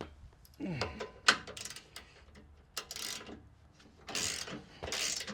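Metal hardware and hand tools being handled on a car chassis: scattered clicks and clinks, with one sharp metallic knock about a second in, and short rattling, scraping stretches later on.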